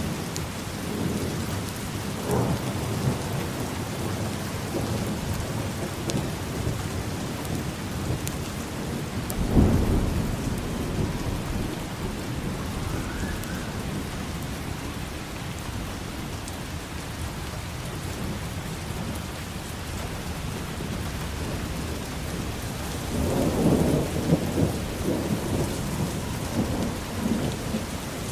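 Steady rain falling, with thunder: a short sharp clap about ten seconds in, the loudest moment, and a longer rolling rumble near the end.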